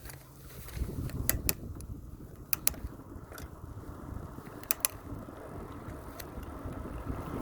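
River water flowing with a steady low rumble, broken by a few short, sharp clicks, mostly in pairs.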